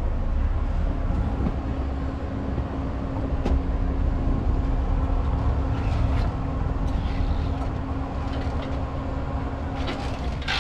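Marina fuel dispenser pump humming steadily, switching on about a second in and stopping near the end, over a constant low rumble, with a couple of faint clicks.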